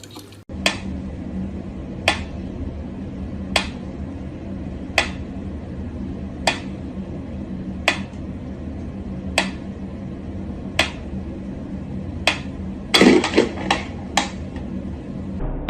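Sharp taps or clicks repeating evenly about once every second and a half over a steady hum, with a quick flurry of louder taps about thirteen seconds in.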